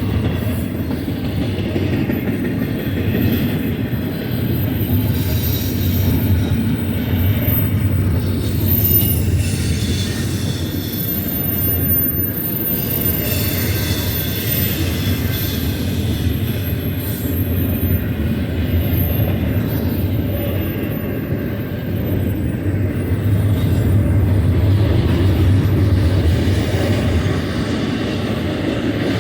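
A freight train's cars rolling past on the mainline: a continuous, steady rumble of wheels on rail, with thin high-pitched wheel squeals coming and going.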